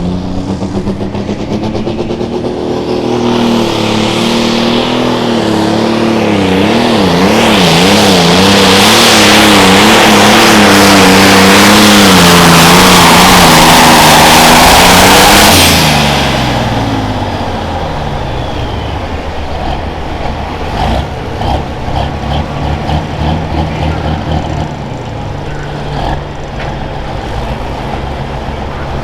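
Limited pro stock pulling tractor's turbocharged diesel engine run at full throttle down the track, its revs wavering up and down as it works under the sled's load and building to a loud peak. About fifteen seconds in the throttle is cut and the revs drop away to a lower, uneven running.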